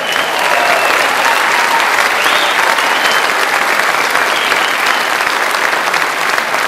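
Audience applauding and cheering at the end of a song, with a few whistles and shouts over the clapping.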